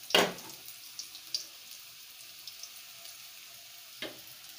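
Noodles and egg frying quietly in a wok, a faint sizzle with scattered crackles. A spatula scrapes loudly against the wok just after the start and again, more softly, about four seconds in.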